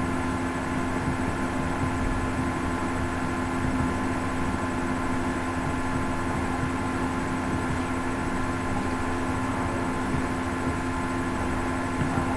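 Hoover Ecologic 800 automatic washing machine running, a steady motor hum with a few held tones over a low rumble.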